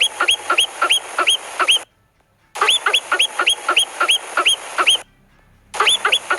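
Marmot giving series of sharp chirping alarm whistles, about four calls a second, in three bouts with short pauses between them.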